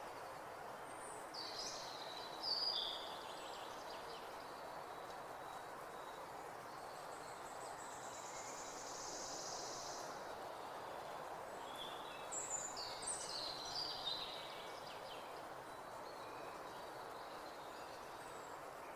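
Birds calling with short high chirps in two bouts, about a second in and again around twelve to fourteen seconds, over a steady rushing background noise.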